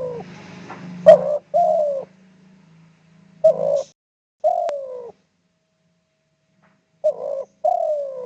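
Spotted dove cooing: three phrases about three seconds apart, each a short coo followed by a longer coo that falls in pitch.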